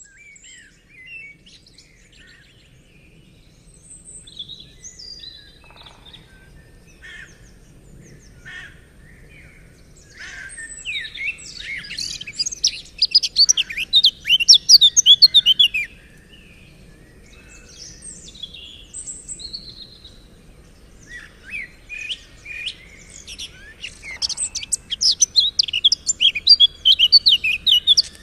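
Songbirds singing and chirping: scattered short calls, then two long bursts of rapid, loud, twittering song, one about halfway through and one near the end, over a faint steady low background.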